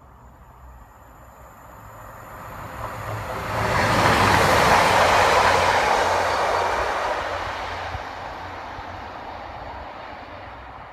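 A train passing at speed: its noise swells over about three seconds, is loudest around four to six seconds in, then fades slowly as it goes away.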